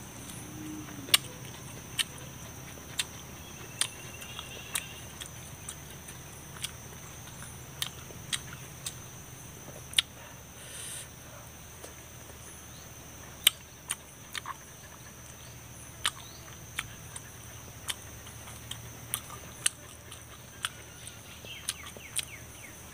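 Close-up eating sounds of roast chicken being chewed: sharp crunchy clicks about once a second, irregularly spaced. A steady high insect buzz runs underneath.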